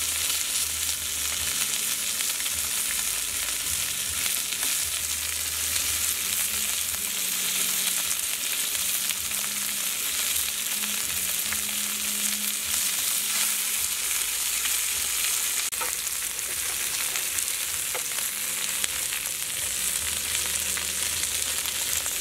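Slices of cow udder and vegetables sizzling in fat on a hot grill pan, a steady hiss.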